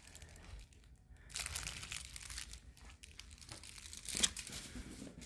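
A chihuahua chewing and tearing at a plush penguin toy: irregular rustling and crunching noises, the loudest a sharp one about four seconds in.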